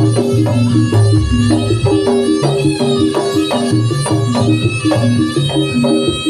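Javanese traditional music for a Samboyo horse dance: a repeating pattern of pitched struck notes over drum beats in a steady rhythm.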